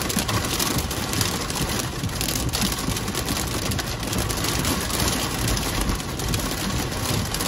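Heavy wind-driven rain beating on a vehicle, a steady loud rush of noise with a deep gusty rumble underneath.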